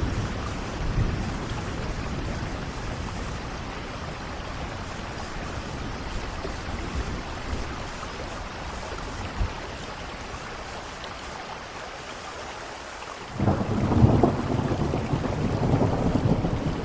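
Steady rain falling, with thunder rumbling low in the background. About thirteen seconds in, a loud crack of thunder breaks suddenly and rolls on.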